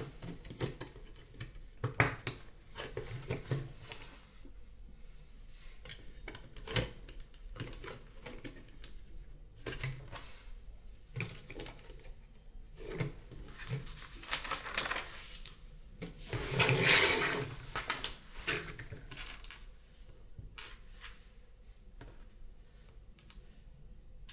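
Plastic LEGO bricks clicking and clattering as pieces are handled and pressed together, in scattered irregular clicks, with a louder, longer rattle of pieces about two-thirds of the way through.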